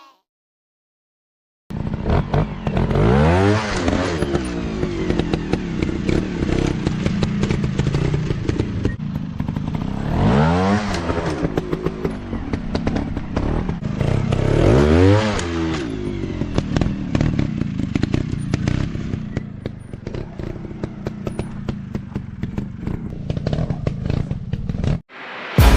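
Off-road dirt bike engines running and revving hard, pitch climbing and falling several times, with constant clattering over them. The sound starts abruptly after a short silence.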